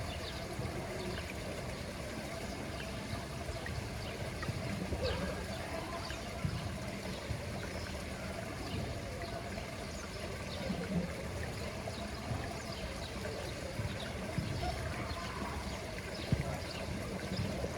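Pool water trickling and splashing steadily, with many small drips and splashes.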